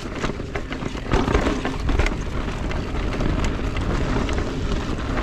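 Electric mountain bike riding over a rough dirt trail: a steady rumble from the tyres and frame, scattered clicks and knocks from the bike, and wind on the microphone.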